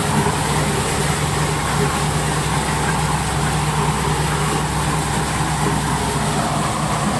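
Engine-driven corn sheller running steadily, a constant motor hum with the rattle and hiss of the threshing machine.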